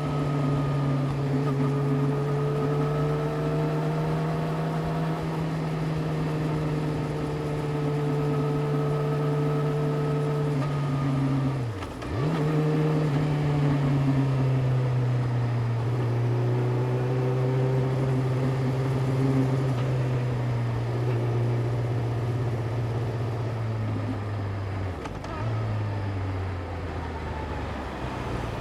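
Yamaha YZF-R6's inline-four engine running at a steady riding speed, its pitch slowly sinking. About twelve seconds in the revs drop sharply and pick straight back up, and near the end they step down again.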